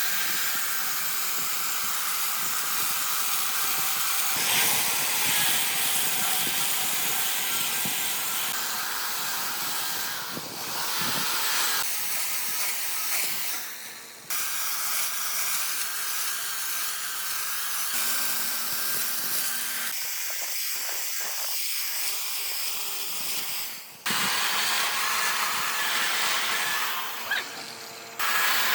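Power tools working wood, a steady hissing run of noise that changes abruptly twice, at edit cuts.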